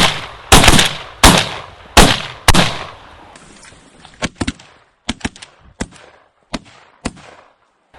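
A volley of shotgun shots from several hunters firing at a flock of mallards: about six loud blasts in the first three seconds, each with a rolling echo, then a run of quieter, sharper cracks from about four to seven seconds in.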